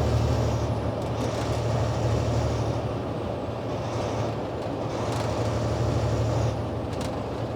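Semi-truck cab interior while cruising: a steady low engine drone with road and wind noise.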